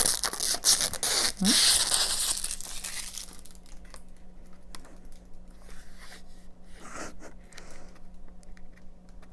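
Protective plastic film being peeled off a stainless steel kitchen scale's top, with loud tearing and crinkling for the first three seconds, then softer crackles and clicks as the film is worked loose.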